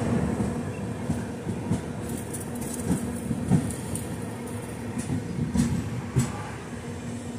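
Passenger train coach running on the rails, heard from its doorway: a steady wheel-and-rail rumble with a low hum and a few sharp clicks.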